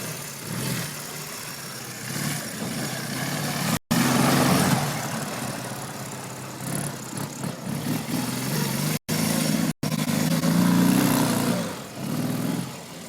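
Dnepr MT-11 sidecar motorcycle's flat-twin engine revving hard and easing off as the wheels spin in dirt. It is loudest about four seconds in and again around ten to eleven seconds, and the sound breaks off abruptly for an instant a few times.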